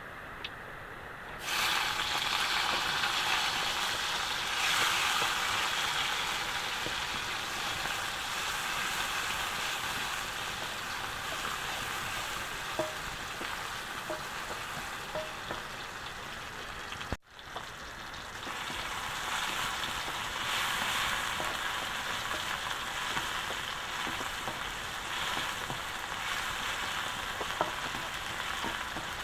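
Food sizzling in hot oil in a pan during a stir-fry. The hiss starts suddenly about a second and a half in and runs steadily, broken once by a short gap near the middle.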